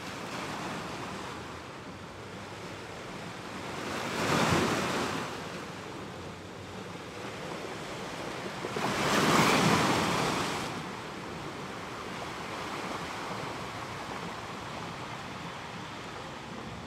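Ocean surf: a steady wash of waves with two larger waves surging in and falling away, one about four seconds in and a louder one about nine seconds in.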